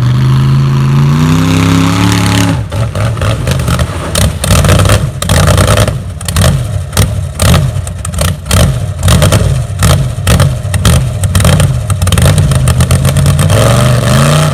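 A vehicle engine revving, climbing in pitch over the first couple of seconds, then revving up and down again and again with clattering until the end.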